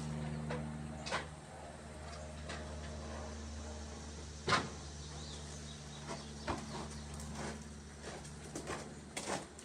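Scattered clicks and knocks of hand tools being worked on the skid steer's hydraulic hose fittings, with one sharp knock about four and a half seconds in, over a steady low hum.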